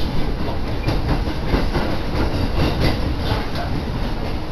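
Kintetsu Nagoya Line electric train running, heard from inside the passenger car: a steady rumble of wheels on the track with clickety-clack over the rail joints.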